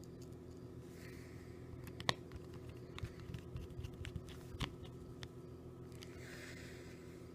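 Light clicks and taps from a smartphone being handled on a table, two sharper than the rest, over a low steady hum.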